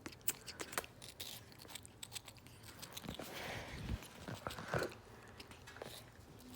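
Severe macaw biting and chewing watermelon with its beak: faint, irregular clicks and small wet crunches.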